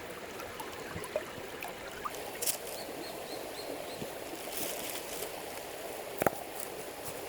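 Stream water flowing steadily. A short run of faint high chirps comes about two and a half seconds in, and a sharp click about six seconds in.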